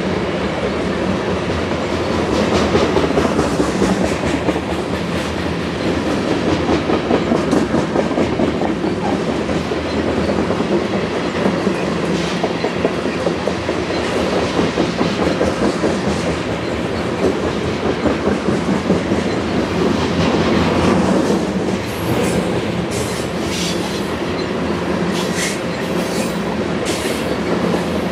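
Covered hopper cars of a BNSF grain train rolling past, their steel wheels clattering steadily over the rails with a continuous rumble. Near the end come several sharp, high clicks and squeaks from the wheels.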